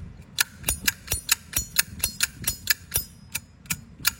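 A metal flip-top lighter's lid being snapped open and shut over and over, making a run of sharp metallic clicks at about four a second.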